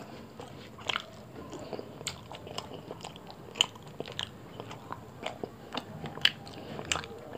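Close-miked chewing and mouth sounds of a person eating roti and chicken curry by hand: wet smacks and clicks scattered irregularly, the sharpest about three and a half and six seconds in.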